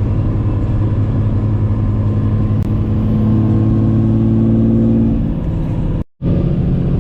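Truck engine running under way, pulling harder for a couple of seconds around the middle and then easing off; the sound cuts out for an instant near the end.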